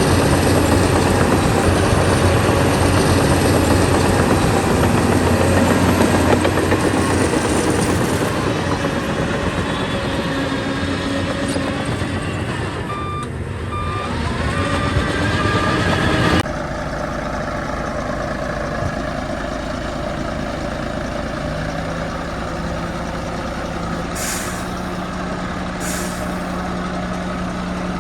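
Heavy diesel engines of earthmoving machinery running hard, with a dump truck's reversing beeper sounding a string of short beeps about halfway. The sound then drops abruptly to a quieter diesel idle, with two short hisses of air near the end.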